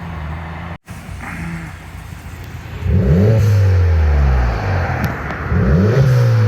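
A car engine revving hard several times as a car pulls away, its pitch climbing and dropping repeatedly from about three seconds in. Before that there is a lower, steadier engine note that breaks off abruptly about a second in.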